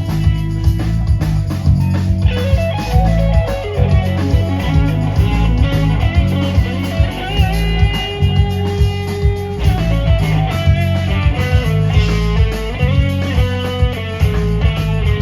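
Live band playing an instrumental passage: an electric guitar plays a lead line with bent notes over bass and drums.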